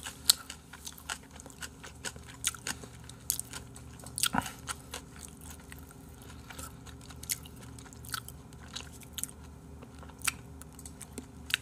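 A person chewing food close to the microphone: irregular small clicks and crunches that come thick and fast for the first few seconds, then thin out.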